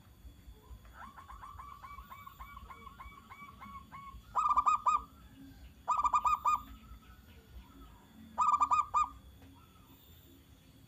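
Zebra dove (perkutut) cooing. About a second in comes a quick run of about a dozen short coos, then three loud bursts of rapid coos a second or two apart.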